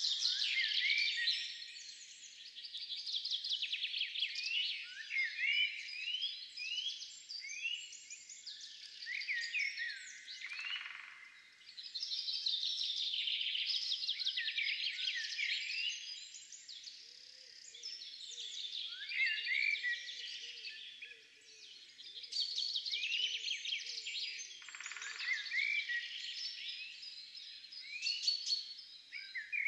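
Several songbirds singing and calling at once, a dense, unbroken chorus of chirps, trills and short rising whistles.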